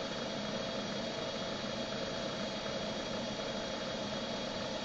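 Steady mechanical hum of the Comet 3KVHD knee mill's motor running with the spindle turning but not cutting.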